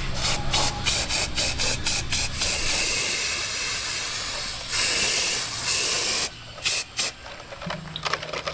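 A run of quick, even bursts, about three a second, gives way to a steady spray-like hiss in two long stretches. Two short bursts follow in a quieter stretch, then a low steady hum near the end.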